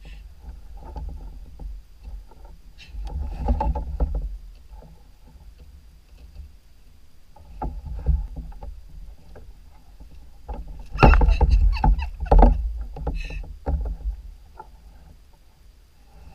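Sounds aboard a kayak on the water: splashing and knocks against the hull in three bursts, the loudest about eleven to thirteen seconds in, over a steady low rumble.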